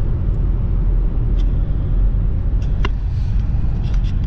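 2007 Hyundai Santa Fe V6 on the move, heard from inside the cabin: a steady low rumble of engine and road noise, with a few light clicks.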